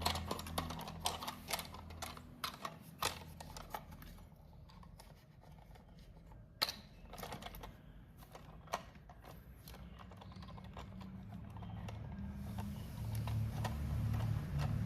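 HO-scale model steam locomotive and freight train running on track, its wheels making irregular sharp clicks over a low motor hum. The clicks come thick in the first few seconds and then only now and then, and the hum fades midway and grows louder again near the end.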